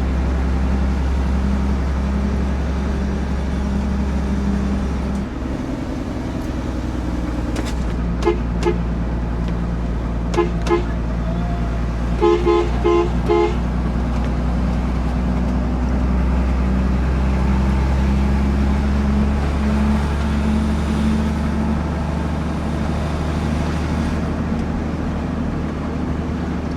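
Heavy truck's engine running steadily on the road, with a vehicle horn tooting: two short double toots about eight and ten seconds in, then a quick run of toots about twelve seconds in.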